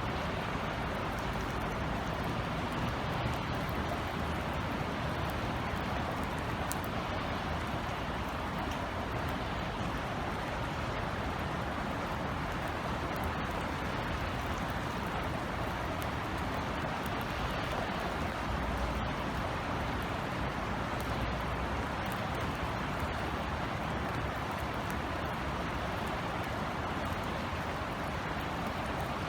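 Steady rain falling, with scattered drops ticking, over a low rumble of distant city traffic.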